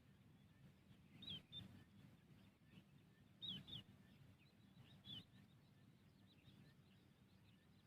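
Faint bird chirps: a few short, falling calls in small groups about a second, three and a half and five seconds in, then softer scattered chirps, over a steady low hum.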